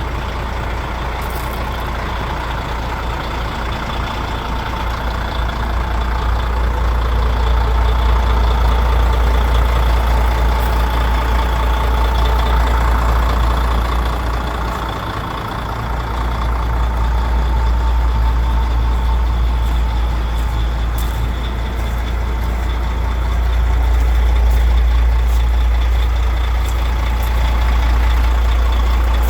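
DAF CF85.410 truck's straight-six diesel engine running with a steady low rumble, dipping briefly about halfway through.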